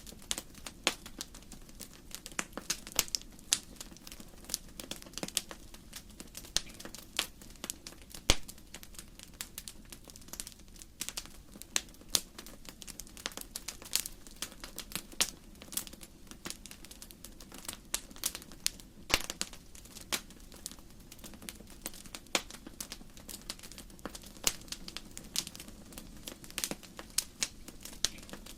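Firewood burning in a fireplace, crackling with irregular sharp pops and snaps, several a second, over a soft steady low rumble of the flames.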